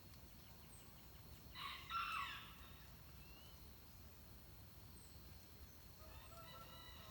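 Rooster crowing once, about two seconds in, with a fainter crow near the end, over faint high bird chirps.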